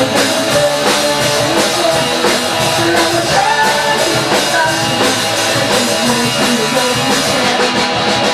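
A rock band playing, with drum kit and guitar at a steady beat.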